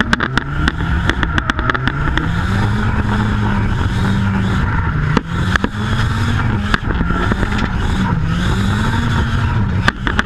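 Nissan 200SX S14's engine revving up and down repeatedly as the car drifts, heard from inside the cabin, with frequent sharp clicks and rattles over it.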